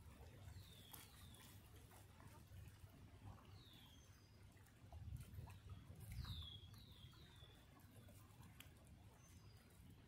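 Faint small-bird calls: a few short chirps, each falling in pitch, three of them in quick succession about six seconds in, over a low rumble.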